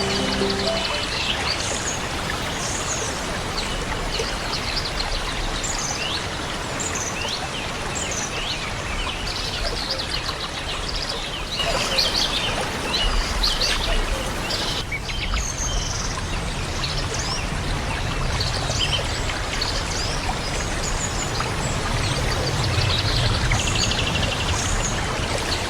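Many small birds chirping and trilling over a steady rush of flowing water, like a stream. Soft music fades out within the first second.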